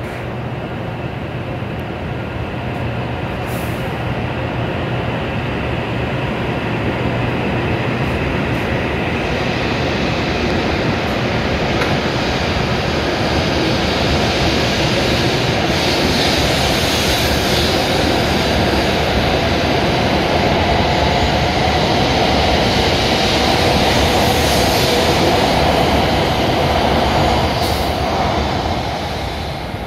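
W7 series Shinkansen electric train pulling out of a station platform and gathering speed, its running noise growing steadily louder, then dropping away near the end as the last car passes.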